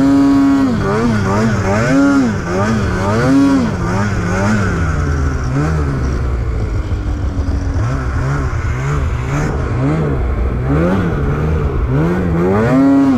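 Snowmobile engine revving up and down over and over, the throttle squeezed and let off about once a second, over a steady low rumble.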